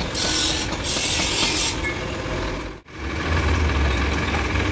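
Concrete mixer truck's diesel engine running, with a loud hiss over it for the first second and a half. After a brief dropout about three seconds in, the engine is heard as a steady low idle.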